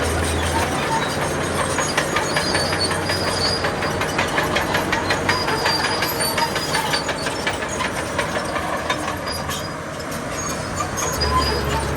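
Crawler bulldozer moving, its steel tracks clanking in a rapid, even rhythm over its engine running.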